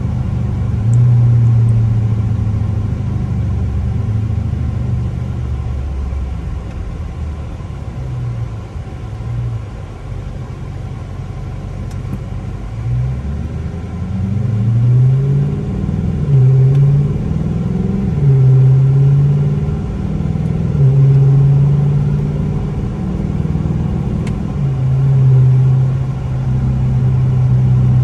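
A car with a very loud exhaust driving, its engine note low and steady at first, then rising and falling several times as it accelerates and shifts through the middle, before settling into a steady cruise.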